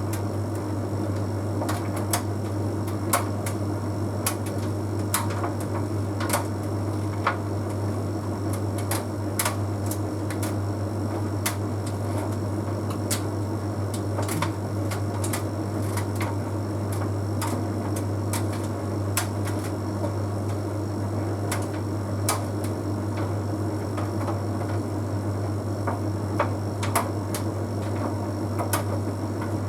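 Bosch Series 6 heat pump tumble dryer running mid-cycle on a half load of synthetics: a steady low hum under irregular light clicks and taps, about one or two a second, from the load tumbling in the drum.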